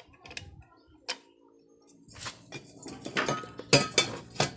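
Metal hand tools and motorcycle engine parts clinking and knocking during reassembly. There are scattered light clicks, then a run of sharper, louder metallic clinks in the second half.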